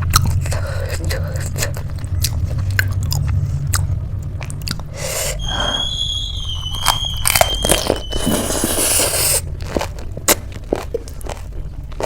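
Close-mic eating: crisp chaat being bitten and chewed, with many sharp crunches. About halfway through, a thin, wavering high whistling tone lasts roughly three seconds and ends in a short hiss.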